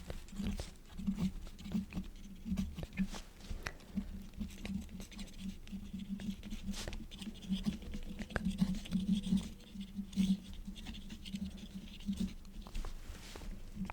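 Quill nib scratching across paper in irregular short strokes, with soft taps and light scratches as it writes.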